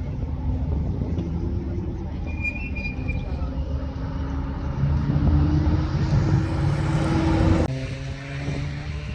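Muscle car engine accelerating, its pitch rising steadily as it gets louder, then dropping suddenly about three-quarters of the way through before running on at a lower pitch.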